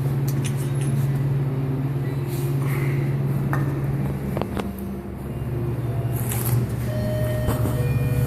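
A steady low hum with scattered light clicks and knocks; the hum drops away briefly about halfway through, then returns.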